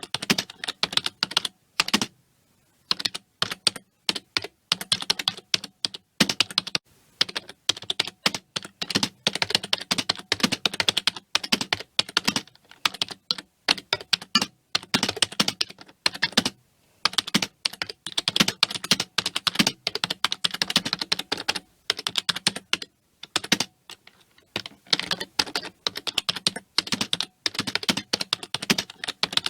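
Computer keyboard being typed on continuously, in fast runs of key clicks broken by brief pauses every several seconds.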